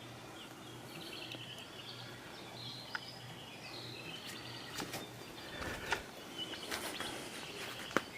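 Forest birds chirping and trilling, with a few light clicks in the second half.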